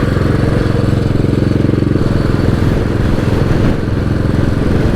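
Royal Enfield Bullet 500's single-cylinder engine running steadily under way, a fast, even pulsing beat.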